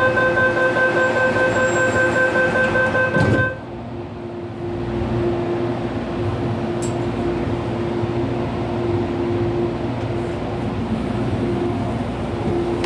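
MTR Airport Express A-train at a platform: a rapidly pulsing door-closing warning tone sounds for about three and a half seconds and ends with the thud of the doors shutting. The train's steady running hum follows, and a rising traction-motor whine starts near the end as it pulls away.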